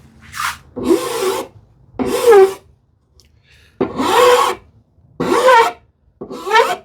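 A hand file worked back and forth on the edge of a wooden drawer front, rounding over its sharp corners: about six strokes, roughly one a second, each about half a second long.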